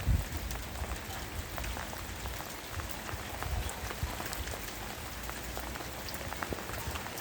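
Pouring rain, with heavy dripping of water off a roof fascia, splashing onto supports and a wall: a steady rain hiss dotted with many quick drip ticks, and occasional low rumbles, the loudest just after the start. The owner wonders whether the gutter is failing to catch the water, so that it spills over the edge.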